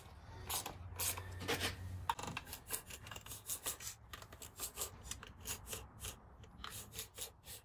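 Hand ratchet working in short strokes, a run of quick rasping clicks a few times a second, as the valve cover bolts of an LS1 V8 are run down.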